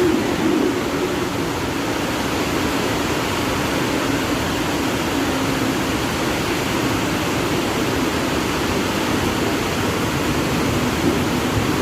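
Steady rushing noise with a low hum underneath, as of a Mumbai suburban local train running.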